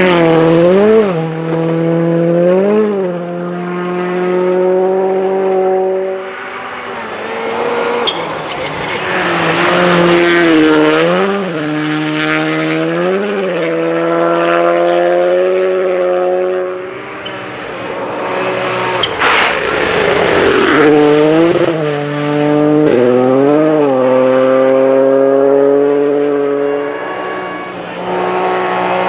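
WRC rally car engines at full throttle, the pitch dipping sharply and climbing again every couple of seconds with quick lifts and gear changes. The sound fades twice and picks up again as cars come through one after another.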